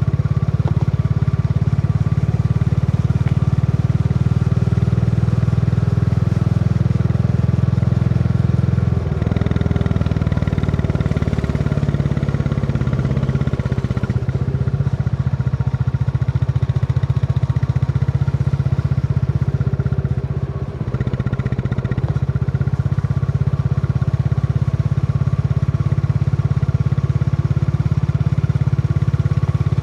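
Royal Enfield Classic 350's single-cylinder engine thumping steadily under way. It eases off about 9 seconds in and dips briefly about 20 seconds in before pulling steadily again.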